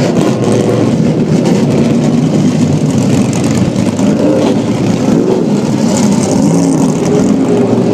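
Several vintage race car engines running together, their pitches rising and falling as they rev, loud and unbroken throughout.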